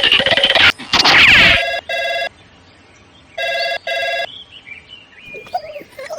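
Electronic ringing tone: two pairs of short beeps, the pairs about a second and a half apart, after a loud noisy rush in the first second and a half. Faint chirps follow near the end.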